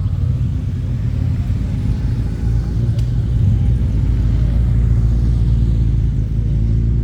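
Motorcycle engines running at low revs, a steady low engine note that grows a little louder about two and a half seconds in.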